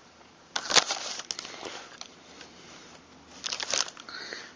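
Metal shotgun parts being handled, likely the trigger assembly. There is a quick run of clicks and rattles about half a second in, and another near the end.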